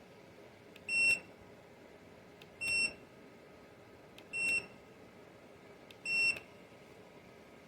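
JIBUFI 1500W PTC space heater's control beeper giving four short, high beeps about every second and a half to two seconds, each with a faint click just before it, as its buttons are pressed.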